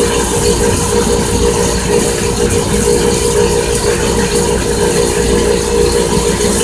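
Haas CNC machine running steadily, facing a friction-welded part to cut off the weld curl: a constant hum with a dense mechanical rattle that does not change.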